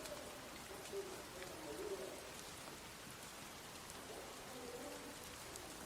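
Steady light rain with scattered drips, and a dove cooing low in short phrases in the first couple of seconds and again near the end.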